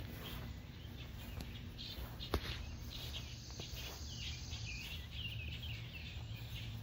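Outdoor ambience: small birds chirping over a steady low rumble, with a single sharp click a little over two seconds in.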